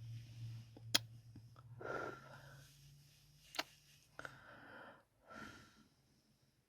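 ASMR kissing sounds close to the microphone: sharp lip smacks about a second in and again past three and a half seconds, with soft breathy kisses between them. A faint low hum runs under the first half.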